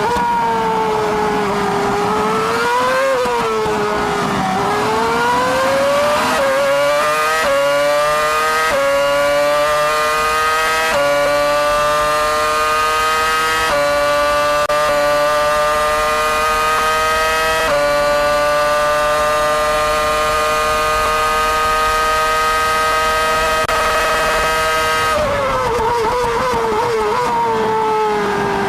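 Ferrari 248 F1's 2.4-litre V8 Formula 1 engine heard onboard. Its pitch first wavers up and down through slower corners, then it runs flat out through about six quick upshifts, each gear climbing more slowly. Near the end the pitch falls as it brakes and downshifts.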